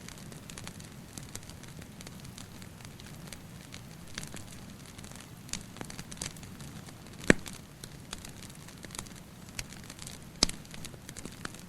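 Wood fire crackling: a steady low rush with frequent small sharp crackles and two loud pops, about seven and ten seconds in.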